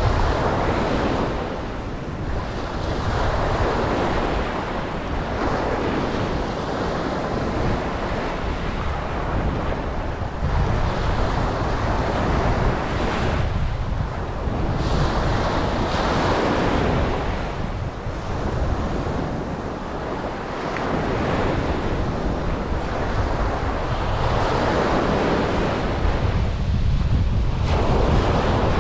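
Ocean waves breaking on a beach, the surf swelling and falling back every few seconds, with wind buffeting the microphone as a steady low rumble.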